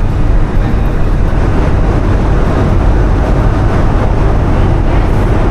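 Steady low rumble of the Whoosh high-speed train heard inside the carriage while it runs at speed.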